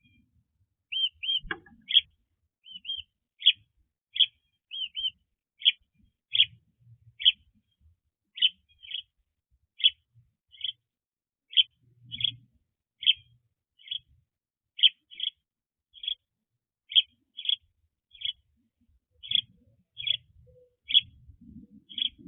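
A bird calling over and over: short high chirps, roughly one or two a second, some given in quick pairs.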